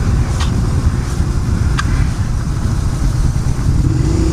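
Suzuki motorcycle on the move: the engine running under a loud, rough rumble of wind and road noise, with a couple of brief ticks.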